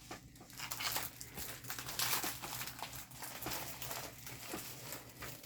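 Diamond painting canvas with its plastic cover film being handled and rolled up: a dense, uneven run of plastic crinkling and crackling.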